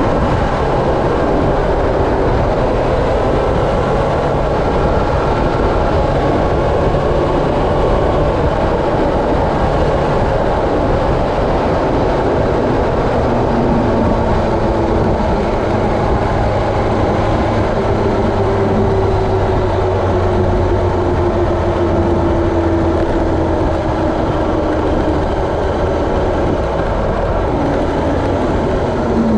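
Steady rumbling of a moving vehicle with rushing wind noise, and a tone that slides slowly down about two-thirds of the way through.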